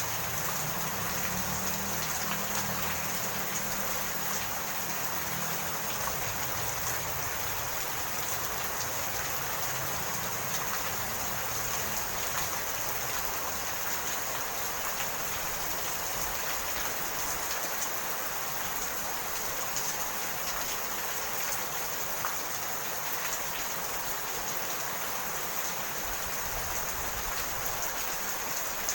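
Steady rain falling. A low rumble underneath fades out over the first several seconds.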